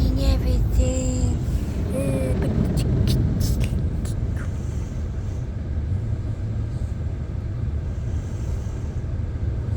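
Steady low rumble of a car wash heard from inside the car. A cat meows briefly three times in the first two seconds, and a few sharp knocks come around three seconds in.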